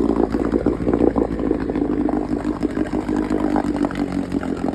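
1964 Johnson 9.5 hp two-stroke twin outboard motor running steadily at low speed, freshly cold-started on a single pull.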